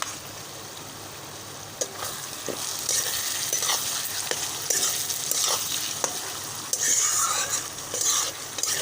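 Chopped tomatoes sizzling in hot oil with fried onions as a spoon stirs and scrapes the pan, with a few sharp taps against the pan. The sizzling grows louder about two seconds in.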